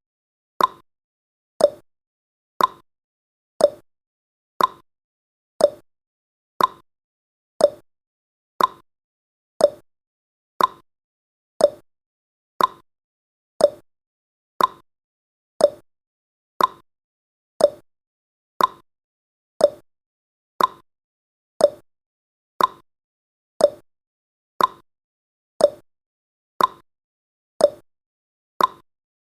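Ticking sound effect of a countdown timer: one sharp click a second, alternating higher and lower like a clock's tick-tock.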